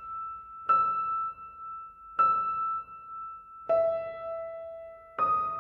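A slow series of single bell-like notes, one about every second and a half, each struck and then fading. They stay on the same high pitch except for one lower note about two-thirds of the way through.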